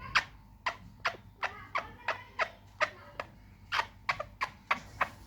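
Pet parrot giving a rapid series of short, sharp calls, about three a second.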